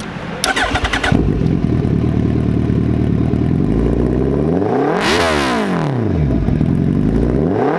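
Suzuki Hayabusa inline-four with an aftermarket SC Project exhaust, started up within the first second and running very loud, then revved once about five seconds in, the pitch rising and falling back to idle.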